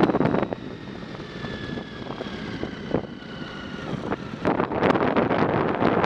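Wind buffeting the microphone during a bicycle ride. It eases off about a second in and picks up again past the middle, and a faint high whine can be heard during the lull.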